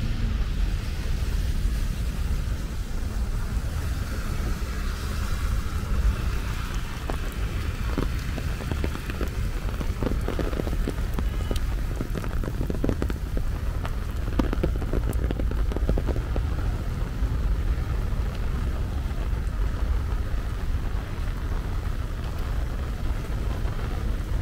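Steady monsoon rain falling, over a constant low rumble. A spell of scattered short taps comes between about seven and seventeen seconds in.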